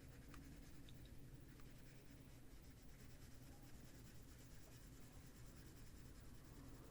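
Faint scratching of a wax-based colored pencil shading on paper.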